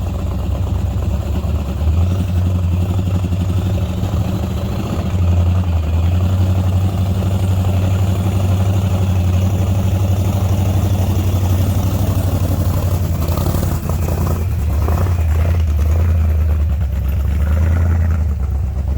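Vehicle engine idling with a steady, deep rumble, swelling a little about five seconds in and again near the end.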